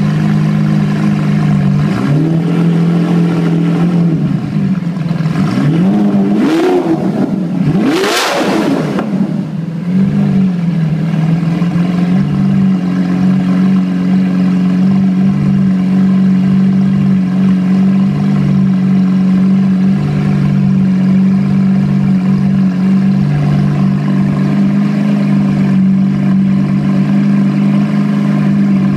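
Lamborghini Aventador's V12 running through a titanium aftermarket exhaust, blipped several times in quick succession with each rev climbing higher, the biggest about eight seconds in. It then settles back to a steady, loud idle.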